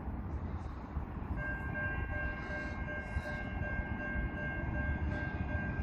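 An approaching train: a low rumble, with a steady high-pitched whine of several tones setting in about a second and a half in.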